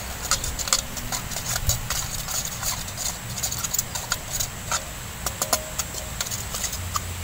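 Egg and petai frying in hot oil in a pan over a wood fire, crackling and spitting with many sharp irregular pops, while a metal spatula scrapes and taps against the pan.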